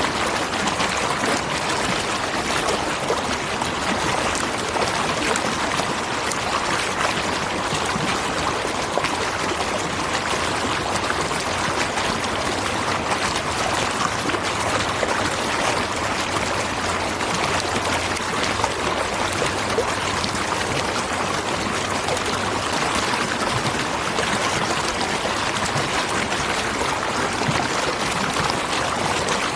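Natural waterfall: water rushing and splashing in a steady, even wash of noise.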